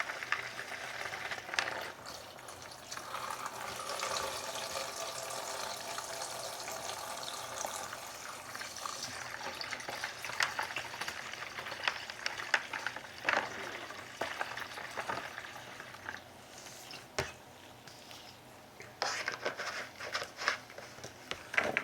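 Cleaning solvent poured from a container into a bucket: a steady pouring splash for roughly the first nine seconds, then scattered sharp clicks and knocks as the container and bucket are handled.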